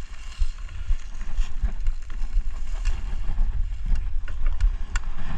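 Wind buffeting the microphone of a chest-mounted action camera during a mountain bike ride on a trail, a fluctuating low rumble with scattered clicks and rattles from the bike.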